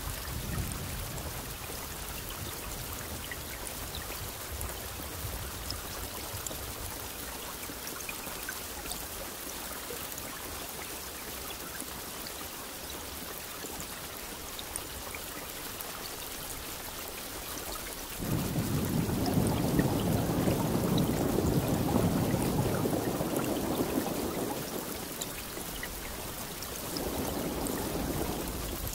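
Steady rain hiss throughout. About 18 seconds in a rumble of thunder starts suddenly, runs for several seconds and fades; a second rumble begins near the end.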